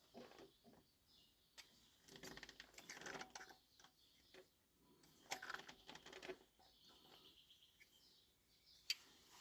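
Faint, scattered metallic clicks and scraping of hand tools on the valve train of a Cummins QSX15 engine during an exhaust valve clearance adjustment. The sounds come in two short clusters, with a single sharp click near the end.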